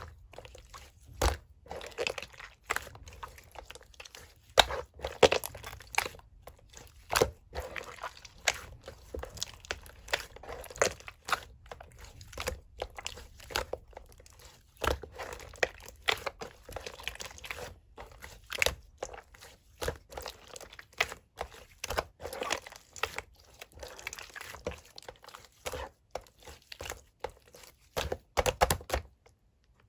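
Purple slime being squished, pressed and stretched by hand, making irregular sharp pops and clicks with wet squishing between them.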